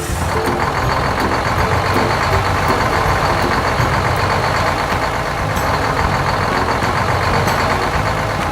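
Heavy vehicle engine running steadily, with a low rumble under a dense mechanical din and a faint high whine above it.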